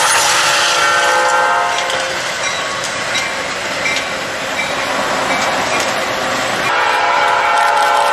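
A train's air horn blowing a loud chord, breaking off about two seconds in while the rushing noise of the moving train goes on, then sounding again near the end.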